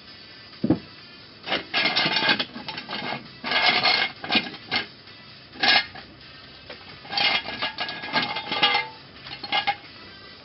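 Metal hand tools and parts clinking and clattering in a run of short, irregular bursts with a slight metallic ring, after a single dull knock about a second in.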